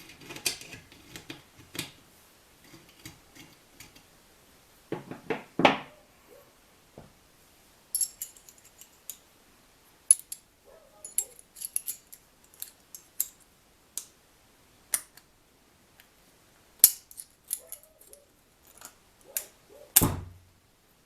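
Small metal engine parts and hand tools being handled: scattered clicks and clinks, a short scrape about five seconds in, and a heavier knock near the end.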